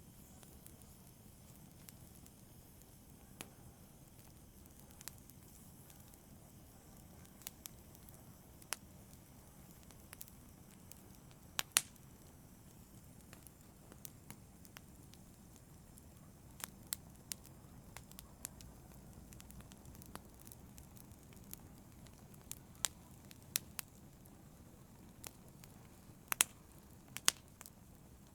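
Fireplace fire crackling: scattered, irregular sharp pops over a low steady rumble, with the loudest pops about twelve seconds in and again near the end.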